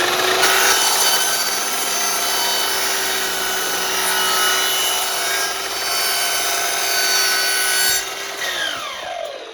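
Sliding miter saw running at full speed while its blade cuts through a laminate board. About eight seconds in, the motor is switched off and the blade spins down with a falling whine.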